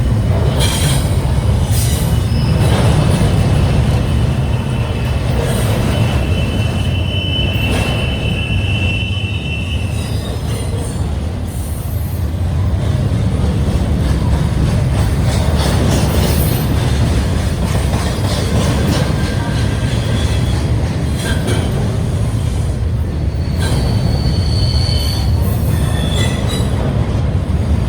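Union Pacific double-stack intermodal freight train rolling past: a steady heavy rumble with clicks from the wheels. A high wheel squeal sounds from about two to ten seconds in, and shorter squeals come near the end.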